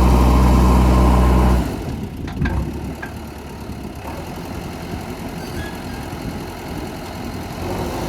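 Diesel engine of a JCB 3DX backhoe loader running with a steady, loud note that drops off sharply about a second and a half in. A quieter rumble follows, with a few knocks.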